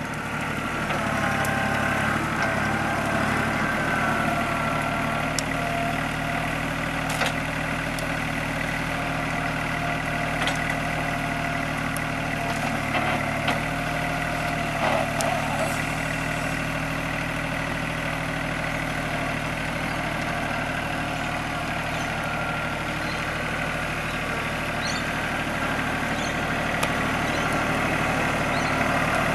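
TYM compact tractor's diesel engine running steadily, with a few sharp clicks now and then over it.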